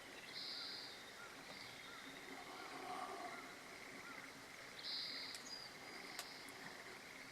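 Faint natural outdoor ambience: small birds chirping, a steady insect-like trill, and two short buzzy calls, one near the start and one about five seconds in.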